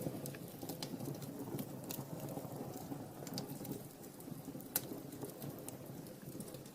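Wood fire burning in a fireplace: scattered sharp crackles and pops, with a sharper pop just after the start and another about three-quarters of the way through, over a steady low rush of the flames.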